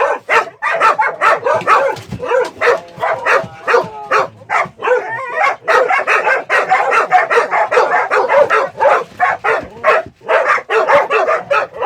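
Many dogs barking at once: a dense, unbroken chorus of short, high-pitched barks overlapping one another.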